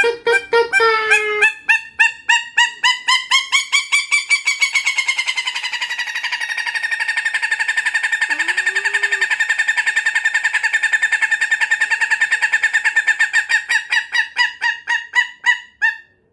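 A bird calling loudly in one long, unbroken train of rapid, evenly repeated notes, several a second. The notes quicken and steady after the first couple of seconds and stop abruptly near the end.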